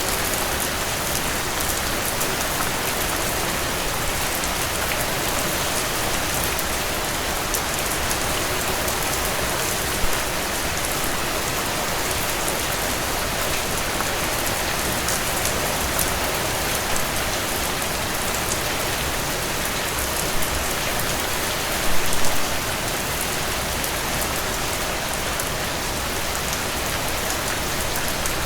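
Heavy rain drumming steadily on a tin roof, a dense hiss full of sharp drop ticks, with a few louder hits, the strongest cluster about 22 seconds in.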